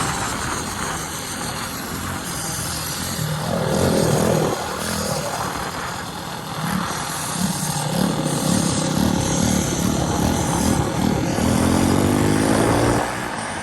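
Small gasoline engine running and revving, its pitch rising near the end before the level drops away.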